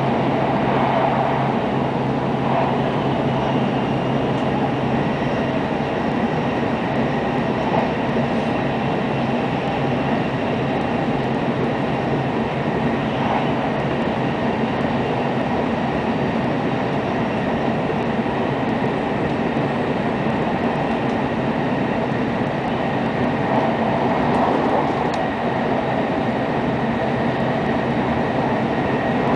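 Interior running noise of a JR Kyushu N700 series 8000 Shinkansen travelling at speed, heard inside the passenger cabin. It is a steady rumble and hiss with a faint high steady whine above it.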